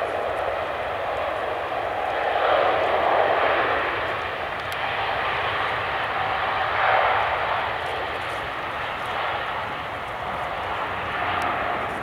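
Jet airliner engines, a loud rushing noise that swells and eases, with a faint steady whine in it, fading near the end.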